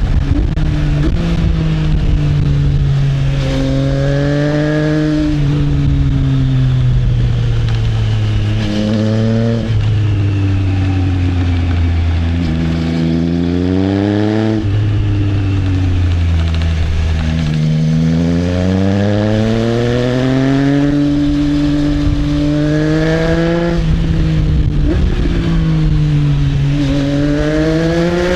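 Triumph Trident 660's inline three-cylinder engine through an aftermarket Arrow exhaust, pulling under load. Its pitch climbs and falls again about six times, with sudden drops at some of the peaks, as the bike accelerates and eases off through the corners.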